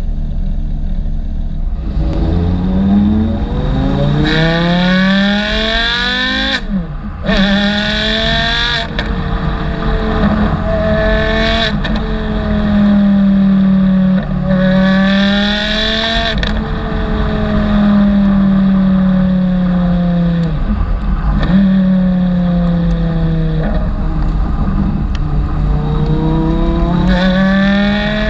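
Porsche Carrera GT's V10 with straight-pipe exhaust, pulling hard through the gears. The engine pitch climbs, drops sharply at each upshift and climbs again, eases down on lift-off midway, then rises once more near the end.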